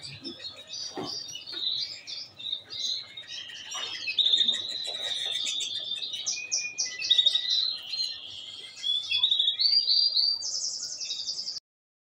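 Domestic canary singing a continuous song of warbles, rolls and trills. It ends in a fast, high trill that cuts off suddenly near the end.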